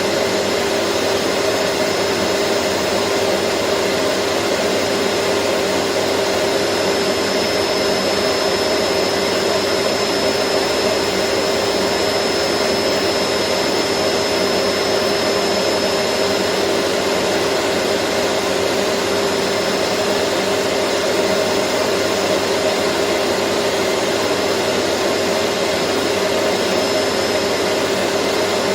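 Vacuum cleaner running steadily: a constant rushing whoosh of air with a steady motor hum, no change in pitch or level.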